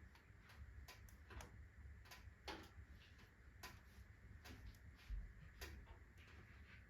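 Wood fire in a fireplace crackling faintly, with irregular sharp pops and snaps from the burning logs of alder, birch and oak.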